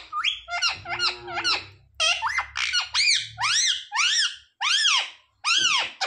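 A pet green parrot calling: squeaky chattering for about two seconds, then a run of shrill screeches, roughly two a second, each rising and then falling in pitch.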